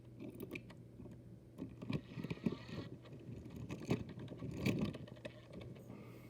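Small diecast toy models being handled and set down: a run of irregular light clicks, taps and scrapes.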